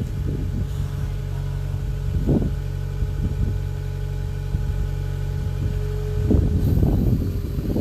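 Skid steer loader engine running steadily with a low hum. About six seconds in, a louder rough clattering noise joins it.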